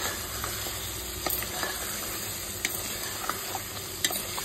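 Mutton pieces with ginger-garlic paste frying in oil in a steel pressure-cooker pot on a low flame, with a steady sizzle. A spoon stirs and scrapes through them, clicking against the steel a few times.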